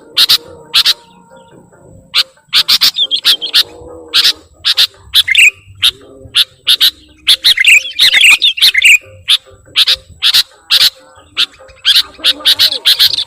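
Small birds chirping: short, sharp, high chirps repeated irregularly, with a denser burst of twittering about eight seconds in and again near the end.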